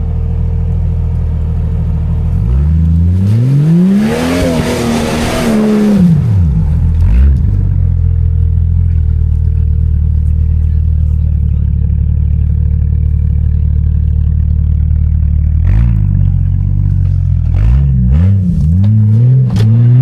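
Old Jeep Cherokee's engine revving hard. A few seconds in it climbs to one long peak with a loud rush of noise, then falls back and holds steady. Near the end come several quick blips of the throttle.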